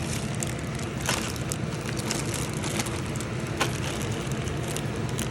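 Steady low hum with a few sharp clicks and light rustling as turbo oil-line fittings and their packaging are handled, one click about a second in and another past three and a half seconds.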